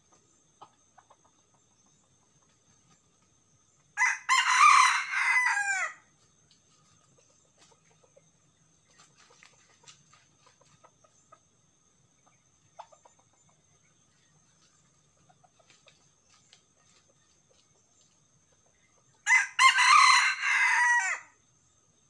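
A red junglefowl rooster crowing twice, about fifteen seconds apart. Each crow lasts about two seconds and ends in a falling slur.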